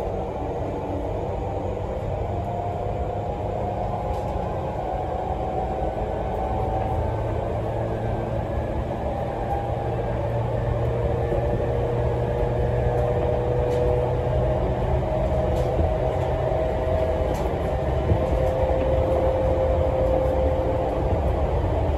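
Running noise of an E231-series electric commuter train heard from inside the passenger car: a steady rumble with faint whining tones that drift slowly in pitch, growing slightly louder toward the end.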